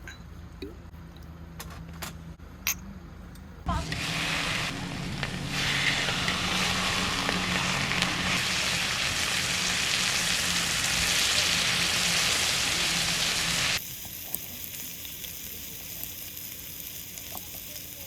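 Beef sizzling on a hot grill: a loud, even sizzle that starts about four seconds in and cuts off suddenly about four seconds before the end. A few light clicks come before it.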